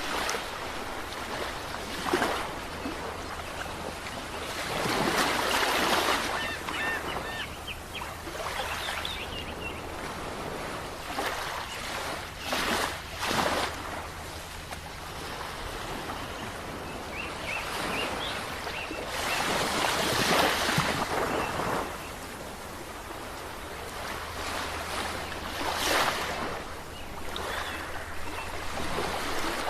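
Sea waves washing onto a shore: a steady rush of surf, with a louder wave breaking every few seconds.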